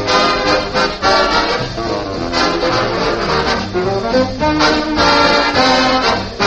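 A big-band dance orchestra with trombones and trumpets playing a brassy swing number, heard through the narrow sound of an old radio transcription.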